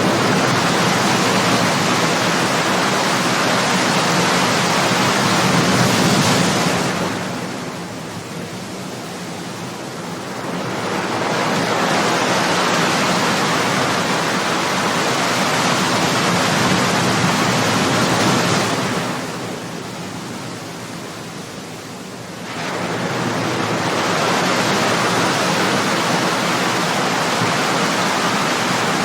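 Ocean surf: waves breaking and washing ashore as a dense, steady hiss that twice eases into a quieter lull for a few seconds before the next wave swells back in.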